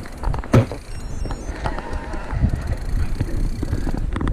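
Mountain bike rolling over a rough forest trail: tyres rumbling and the bike rattling over bumps, with a hard knock about half a second in, and wind on the microphone.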